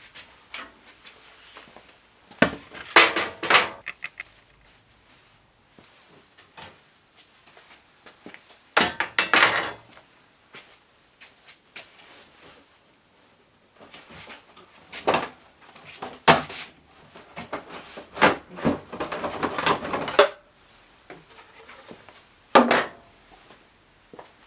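Irregular clunks, knocks and rattles of hard objects being handled, in several separate bursts with quiet gaps between.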